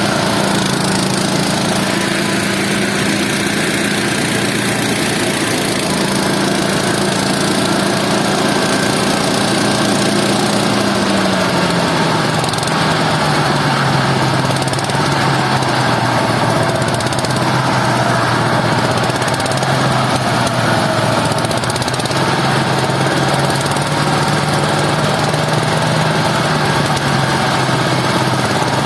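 Small engine running steadily under load, its pitch dropping a step about eleven seconds in and holding lower.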